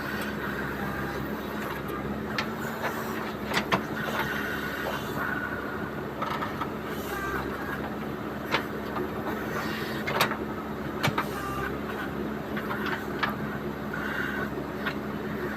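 JCB 3DX backhoe loader's diesel engine running steadily under work, with a series of sharp metallic knocks and clanks scattered through it, about seven in all.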